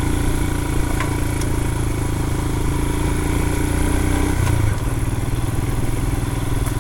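2020 Royal Enfield Himalayan's single-cylinder engine chugging at low speed through mud, its note changing about four and a half seconds in.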